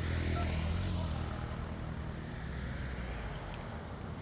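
A motor engine running steadily with a low rumble, loudest in the first second and easing a little after.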